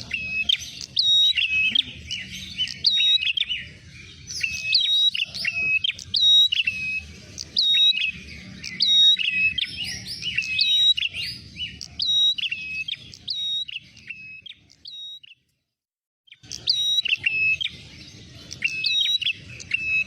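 Prenjak merah (a prinia) singing a lure call: rapid, repeated sharp chirping notes, high-pitched and insistent. The song stops for about a second, three-quarters of the way through, then starts again.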